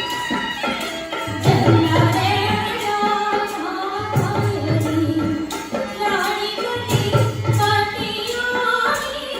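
Rajasthani folk music: a voice singing a wavering melody over hand drums, with a deep drum pattern coming round about every three seconds.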